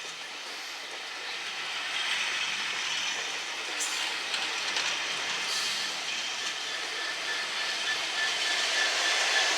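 Train moving on the rails, the noise slowly growing louder, with a faint steady squeal from the wheels near the end.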